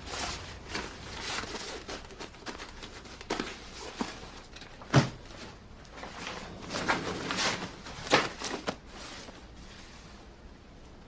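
Scattered knocks and rustling handling noises, with one sharp knock about five seconds in and a busier patch of rustling about seven to eight seconds in.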